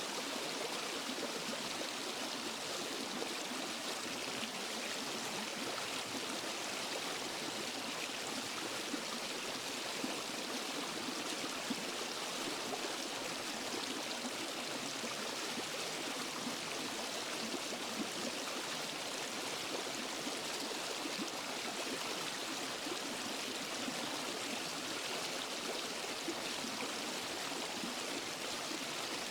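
Waterfall and forest stream: water running over rocks in a steady, unbroken rush, with splashing and gurgling mixed in.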